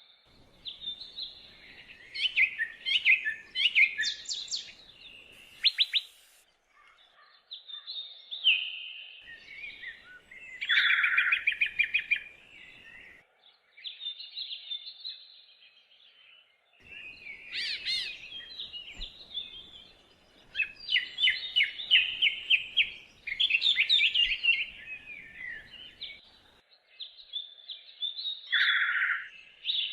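Several songbirds singing and chirping in a chorus: quick trills and rapid runs of high notes, in phrases of a few seconds with short pauses between.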